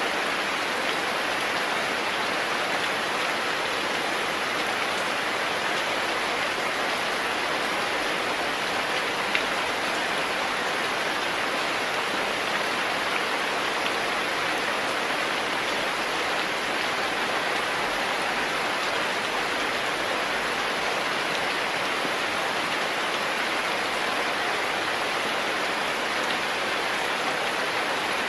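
Steady rain, a continuous even hiss of rainfall with one faint drop-like tick about nine seconds in.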